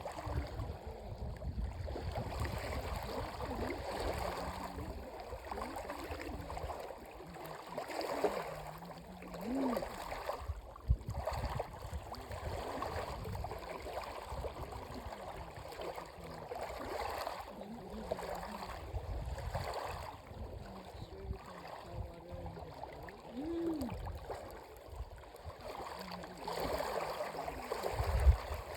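Dead Sea water lapping and sloshing around people in the shallows, an uneven continuous wash with a few brief louder splashes.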